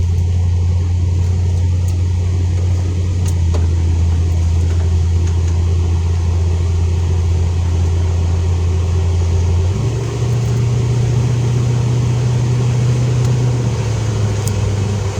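Car driving, heard from inside the cabin: a steady low engine and road drone that steps up in pitch about ten seconds in and drops back down near the end.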